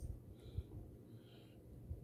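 Faint, close-miked mouth sounds of a person chewing a bite of chicken, with soft breathing through the nose and a few low soft thumps.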